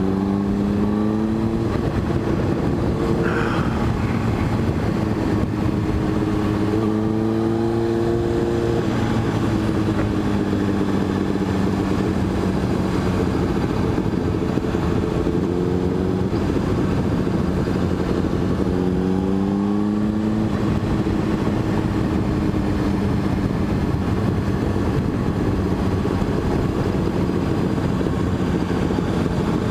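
Motorcycle engine running under way as it is ridden, its pitch rising with the throttle about a quarter of the way in and again past the middle, easing back in between, over a steady rush of wind and road noise.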